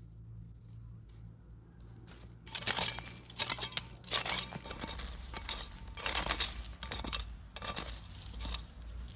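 Irregular crinkling and rustling handling noises, starting about two and a half seconds in and coming in uneven bursts.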